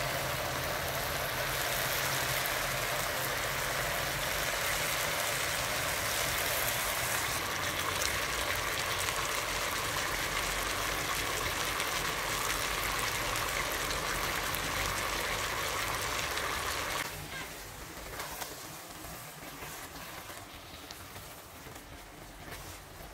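Chicken pieces and chopped tomatoes sizzling in a hot pot, a steady hiss that suddenly drops to a quieter sizzle about two-thirds of the way through. Near the end a wooden spoon stirs the stew.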